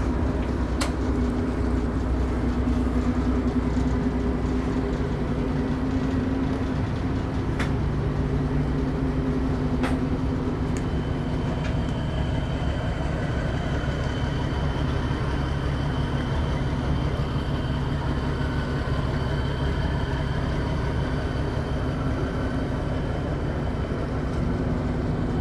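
A boat's engine running steadily with a low drone, a faint high whine coming in about halfway through, and a couple of sharp clicks.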